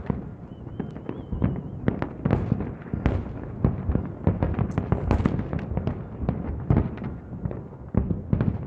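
Fireworks display: a dense, unbroken run of overlapping bangs and crackles, several explosions every second.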